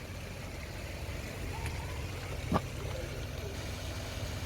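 Engine-driven flood pump running steadily with a low hum, pumping floodwater out of cellars. A short sharp click about two and a half seconds in.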